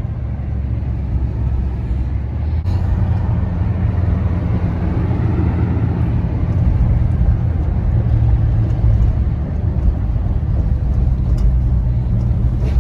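Car driving, with a steady low engine and road rumble that grows a little louder about three seconds in.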